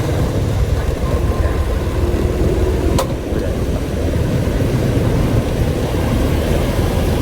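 Steady low rumble of a vehicle on the move, with one sharp click about three seconds in.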